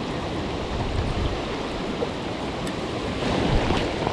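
Steady rush of water from the lake spillway mixed with falling rain, with wind rumbling on the microphone; it swells a little about three seconds in.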